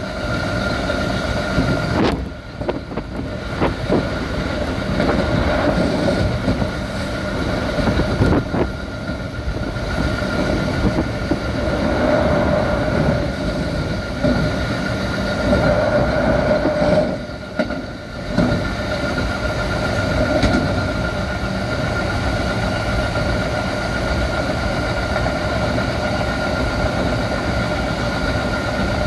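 Running sound inside a Keikyu 1500-series chopper-control electric train at about 70 km/h: continuous rumble of wheels on rail with a steady hum. The sound dips briefly about two seconds in and again around seventeen seconds.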